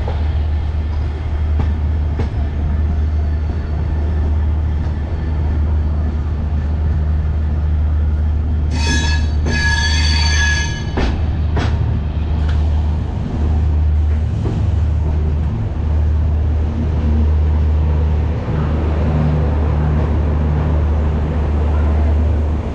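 Train sounds at a railway platform: a steady low rumble, with a shrill pitched sound about nine seconds in that lasts about two seconds, followed by a couple of sharp knocks.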